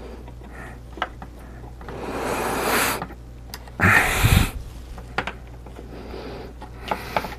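Hands-on work noise at a workbench over a low steady hum: a rushing noise that swells for about a second, then a loud short bump or huff a second later, with scattered small clicks.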